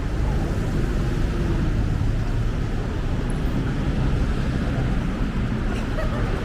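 Steady low rumble of city road traffic, with engines and tyres passing along the street.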